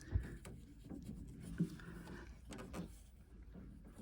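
Faint, scattered clicks and rubbing as a retaining clip is worked into a boiler's hydraulic block by hand, a few small knocks spread through it.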